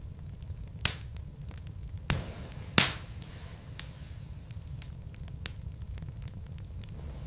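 Burning wood logs in a fireplace crackling steadily with scattered sharp pops, three louder pops in the first three seconds, the loudest just before the three-second mark, over a low steady rumble.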